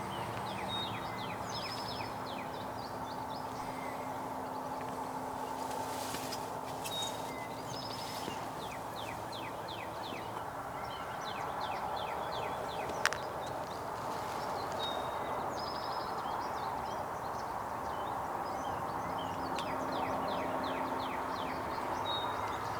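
A songbird singing repeatedly, each phrase a brief high note followed by a quick run of short notes, over a steady outdoor background hum of the woods. A single sharp click about halfway through.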